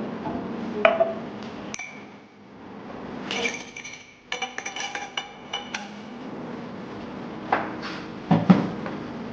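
Glass and dishware clinking and knocking: a couple of single clinks, a quick run of about six ringing clinks around the middle, then heavier knocks near the end.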